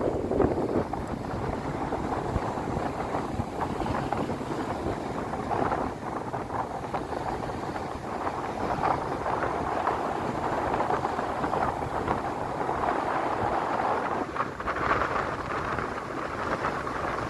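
Steady rushing wind buffeting the microphone, mixed with the noise of a ferry under way.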